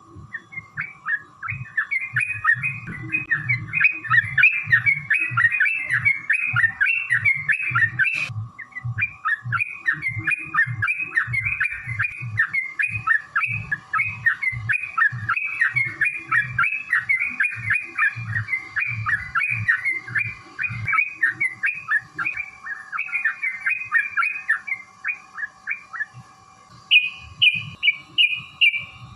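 Yellow-vented bulbul (trucukan) singing a long, fast run of chattering notes, broken briefly about eight seconds in, with a short run of higher notes near the end. A faint steady hum lies underneath.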